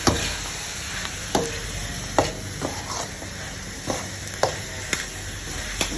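Baby squid sizzling in a pan of fish-sauce glaze while being stirred, the utensil clacking against the pan eight or so times.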